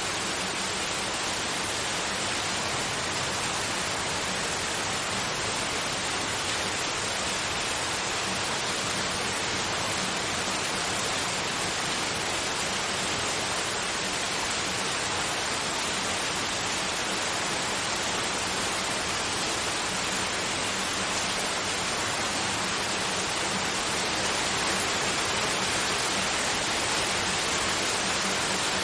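Continuous white noise: an even, unchanging hiss.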